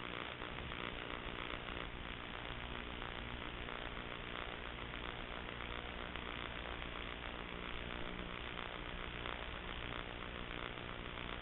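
Steady electrical static hiss with a low mains hum underneath, unchanging throughout: the noise floor of the recording equipment, with no other sound.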